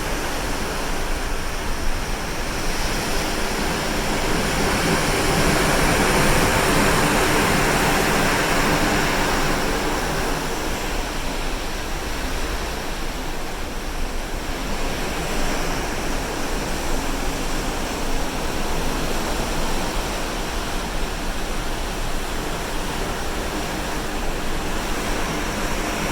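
Sea water rushing and breaking along the side of a moving cruise ship, with wind rumbling on the microphone. The rush swells a few seconds in, then eases back to a steady wash.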